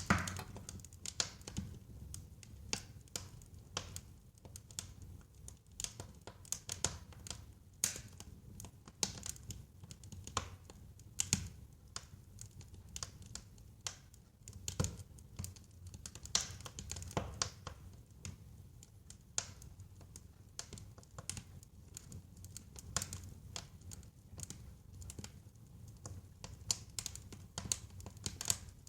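Wood fire burning in a fireplace: a low rumble of flames with frequent sharp, irregular crackles and pops from the burning logs.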